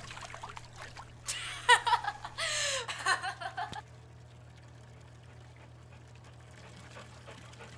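A young woman laughing and making short voice sounds for about two and a half seconds, then only a faint steady low hum.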